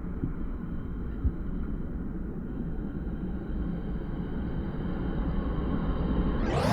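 A road vehicle approaching and passing close by, a low rumble that swells and rushes loudest near the end.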